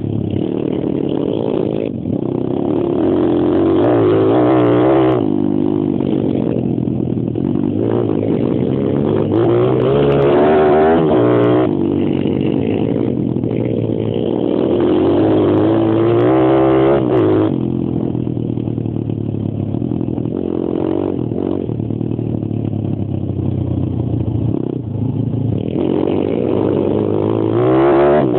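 Pit bike's small single-cylinder engine, heard from the rider's helmet, revving up hard and easing off again and again as it is ridden round a track. There is a longer spell at lower revs about two-thirds through.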